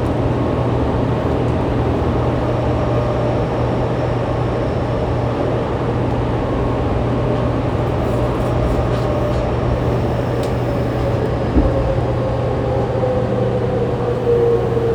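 Running noise inside a Fukuoka City Subway 2000 series car with a Hitachi GTO-VVVF inverter: a steady rumble and hum, with the car's air-conditioning adding to it. There is a single knock about halfway through. In the last few seconds a motor tone slowly falls in pitch as the train slows toward the next station.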